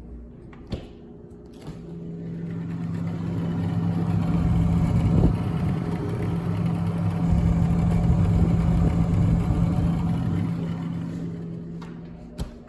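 A small electric motor running with a steady hum, starting with a click and stopping with another click near the end; it grows louder in the middle and then fades.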